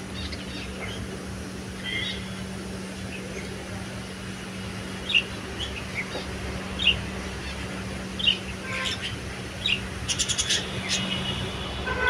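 Small caged aviary birds chirping in short, separate calls every second or so, with a quick run of rapid chattering about ten seconds in. A steady low hum runs underneath.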